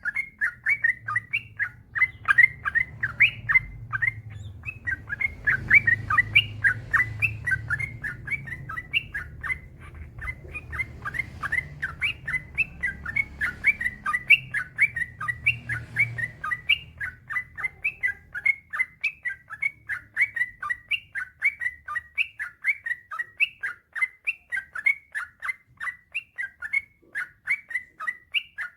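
Yellow-vented bulbul (trucukan) singing a long, unbroken run of short chirping notes, several a second, in the rapid rolling song that keepers call ropel panjang. A low rumble lies underneath for the first two-thirds.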